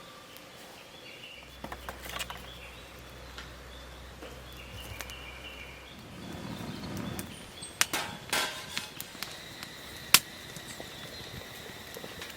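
Scattered light knocks and clicks, with a short rustle about six seconds in and a single sharp crack near the end, the loudest sound.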